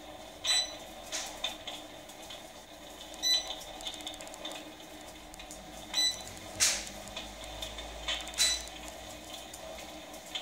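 An electric fireplace's built-in crackling sound effect, imitating a log fire: irregular pops and crackles, about half a dozen louder ones, over a steady low hum.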